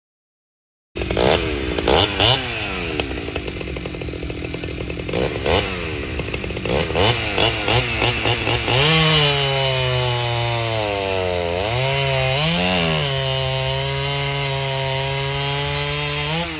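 Vintage two-stroke chainsaw running: it cuts in abruptly about a second in, the engine speed rising and falling unevenly at first, then holding a steady high pitch with a brief dip and climb near the end.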